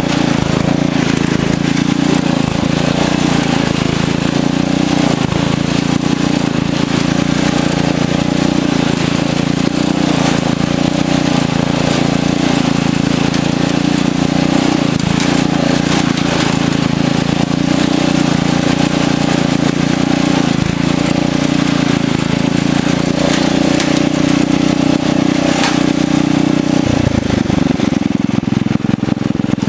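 Craftsman riding tractor's engine running steadily as it drives, dropping in pitch near the end.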